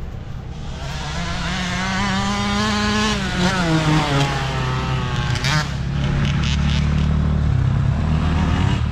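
Dirt bike engines running, growing louder as a bike approaches. The engine note climbs, then drops around three to four seconds in, and settles into a steady low running note.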